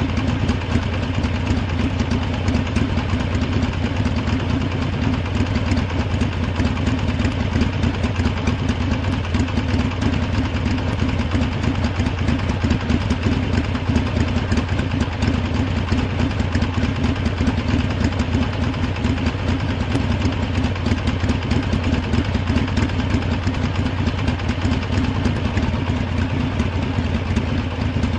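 Harley-Davidson V-twin motorcycle engine idling steadily, with no revs.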